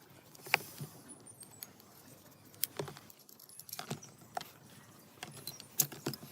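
Irregular light clicks and taps of hand tools and small parts being handled, about a dozen over a few seconds, the sharpest about half a second in and near the end.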